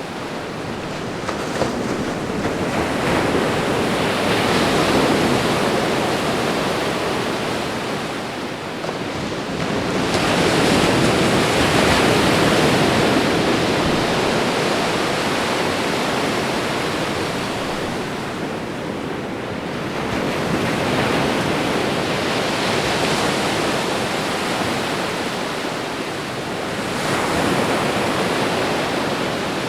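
Ocean waves breaking and washing onto a shore, the surf swelling and falling back in slow surges about every six to eight seconds.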